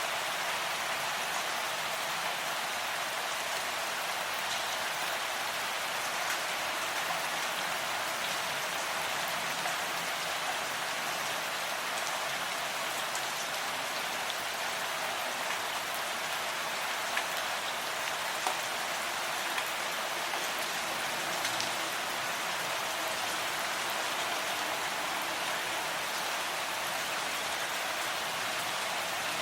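Steady rain falling, an even hiss of many drops with a few scattered louder drop ticks.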